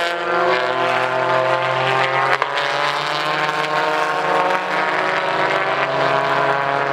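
Touring car engine running at steady revs, a long droning note that shifts slowly in pitch, with a sharp click about two and a half seconds in.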